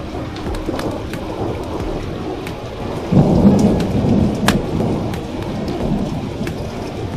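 Steady heavy rain with a low rumble of thunder that breaks in about three seconds in and fades over the next couple of seconds, and sharp fireplace crackles scattered throughout.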